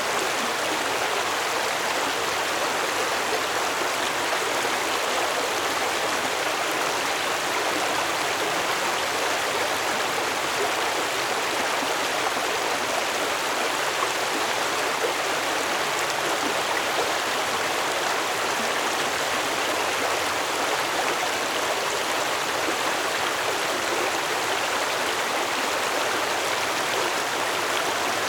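Stream water flowing steadily, a constant rushing and babbling with no change.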